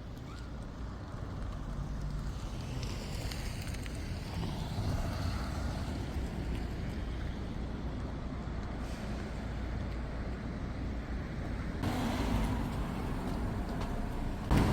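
Street traffic: road vehicles running past with a steady low rumble, a high gliding squeal about three seconds in, and a louder passing vehicle near the end.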